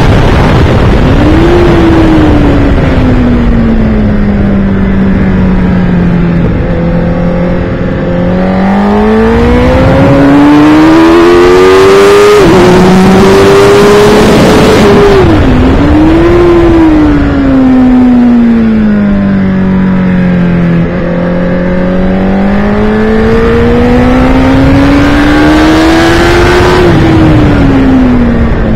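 Sport motorcycle engine heard onboard at track speed, with heavy wind rush over the microphone. The engine note repeatedly sinks and climbs as the bike slows and accelerates, with quick gear-change breaks about twelve and fifteen seconds in.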